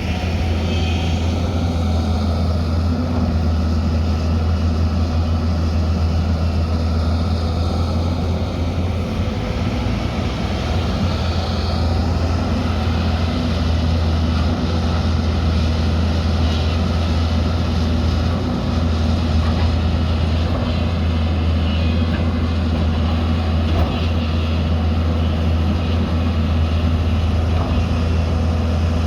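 Heavy earthmoving machine's diesel engine running steadily at a constant low hum throughout.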